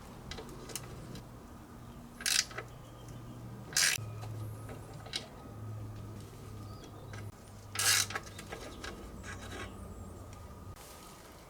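Three short scrapes of a hand tool on the car's underbody metal, over a low steady hum.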